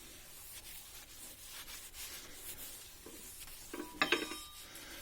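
Damp cloth dipped in wood ash rubbing across sooty fireplace glass, a soft, scratchy back-and-forth wiping. A brief, louder squeak about four seconds in.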